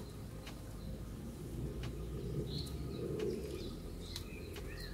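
Birds calling a few times with short high chirps over a low steady rumble, with a few faint clicks.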